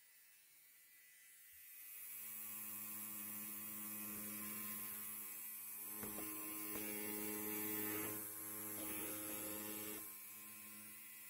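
Electric hair clipper buzzing with a steady low hum. It starts about two seconds in, gives a few short crackles in the middle, and drops in level near the end.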